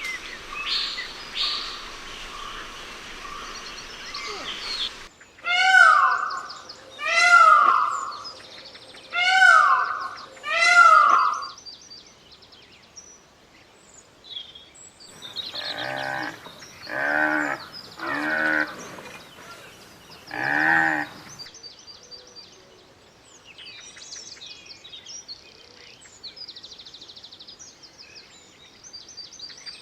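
A run of animal calls: four loud calls that each slide down in pitch, then five lower, deeper calls, then faint bird chirping.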